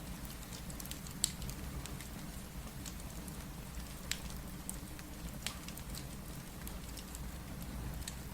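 Steady rain with a wood fire crackling over it: a continuous low rush of rain and fire, with scattered sharp pops and snaps, the loudest about a second in and others near the middle.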